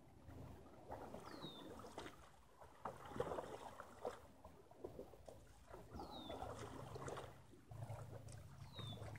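Faint water splashing and sloshing around a kayak on a pond, coming in uneven bursts. A bird gives a short call sweeping down in pitch three times.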